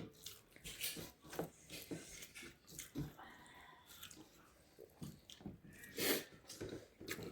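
Close-up eating sounds: irregular soft chewing clicks and mouth smacks, with one louder noisy sound about six seconds in.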